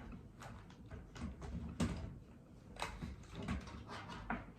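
Unboxed items and packaging being moved and set down by hand: a handful of short knocks and clicks with some rustling between them.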